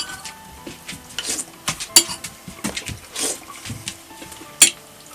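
Irregular clinks of metal kitchenware against dishes, about half a dozen, some with a short metallic ring after them; the two loudest come about two seconds and four and a half seconds in.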